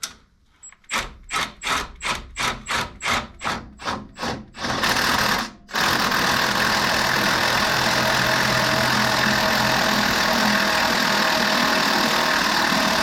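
Power wrench spinning a nut with a 9/16 socket. It starts as about a dozen short trigger pulses, about three a second, then runs steadily for about seven seconds and stops sharply.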